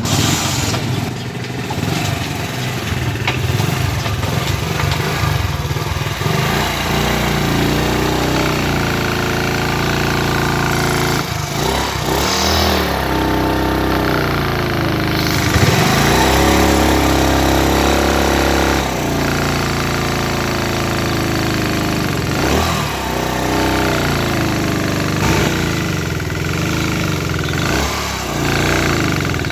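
Motorcycle engine running and revved up several times, with knocking from the piston and cylinder head under speed, which the mechanic suspects comes from a leaking head gasket.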